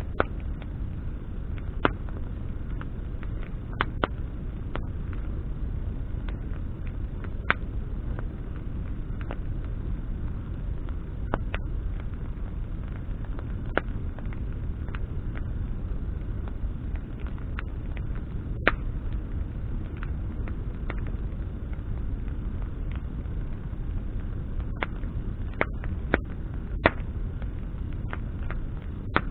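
Wood campfire burning, with sharp crackles and pops of burning branches at irregular intervals over a steady low rumble.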